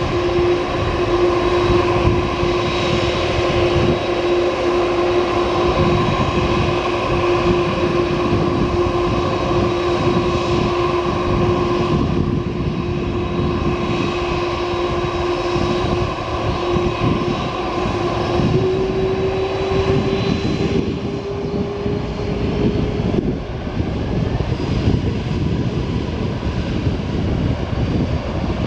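Boeing 767-424ER's twin turbofan jet engines running loud: a broad roar with a steady whine that steps up slightly in pitch about two-thirds of the way through, then drops out while the roar continues.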